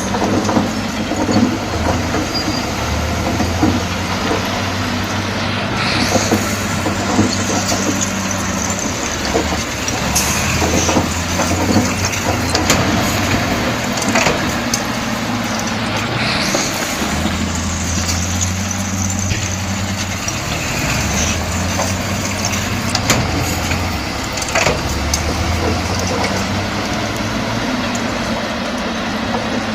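Heavy diesel engine of a crawler bulldozer running under changing load, its note shifting several times, with the clatter and occasional sharp clanks of the steel tracks.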